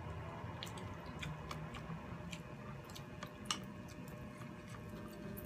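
Close chewing and mouth sounds of people eating baked shrimp and rice by hand, with scattered small wet clicks. The sharpest click comes about three and a half seconds in.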